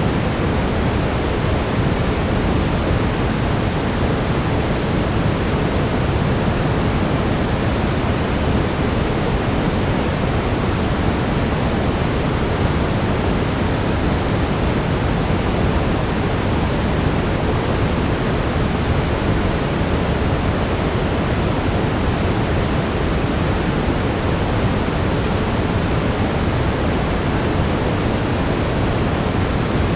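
Steady brown noise: an even, unchanging rushing hiss weighted toward the low end.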